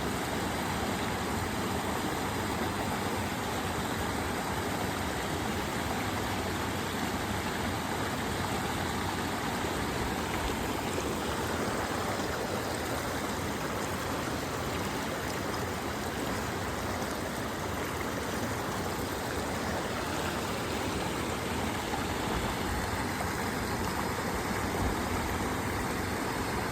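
Creek water running steadily over rocks, an even, unbroken rush.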